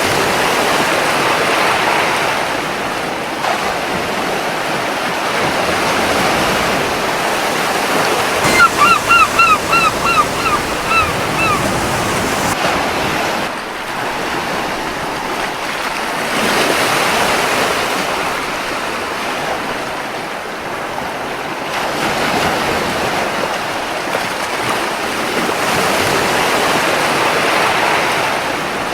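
Surf washing onto a beach, swelling and easing every several seconds, with a gull giving a quick run of about eight short calls about nine seconds in.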